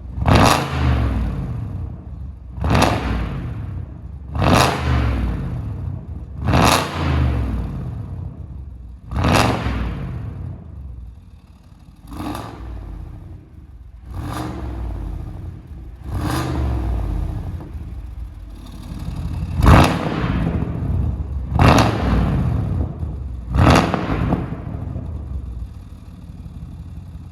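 Chevrolet Camaro SS V8 through a valved aftermarket exhaust with an independent mid-pipe, blipped again and again while parked: about a dozen sharp rev blips roughly two seconds apart, each falling back toward idle, with a couple of longer held revs in between.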